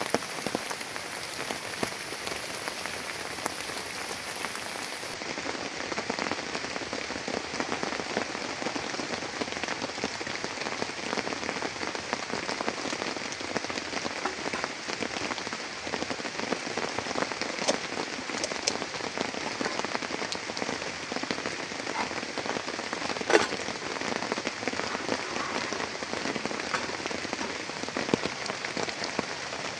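Heavy rain falling steadily, a dense patter of drops with individual drops ticking through it and one sharper drop hit about three-quarters of the way in.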